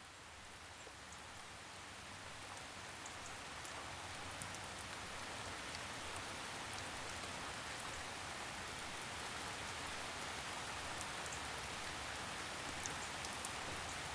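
Steady forest rainfall fading in over the first few seconds: an even hiss of rain with scattered small drips and patters.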